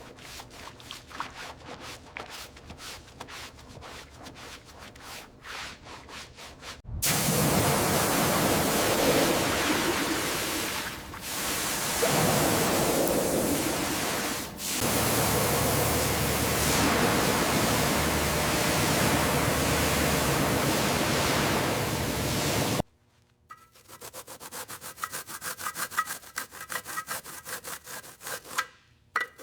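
Quick repeated rubbing strokes by hand, like scrubbing or sanding. About seven seconds in, a loud steady rushing noise takes over for some fifteen seconds with two brief dips, then stops suddenly, and the rubbing strokes resume.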